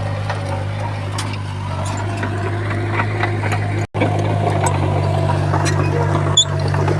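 Heavy diesel engine of earthmoving machinery running steadily, with scattered light clanks. The sound drops out for an instant just before four seconds in.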